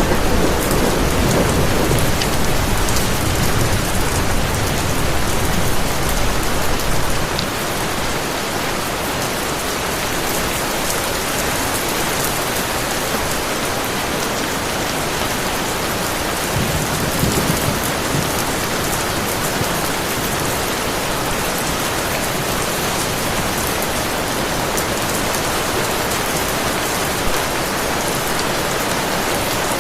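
Heavy rain falling steadily, with a low rumble of thunder that fades out about seven seconds in and a short, fainter rumble about seventeen seconds in.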